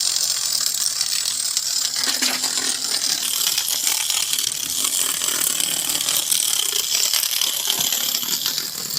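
Fast, steady mechanical clicking and rattling, like a small gear mechanism running continuously. It cuts off suddenly at the end.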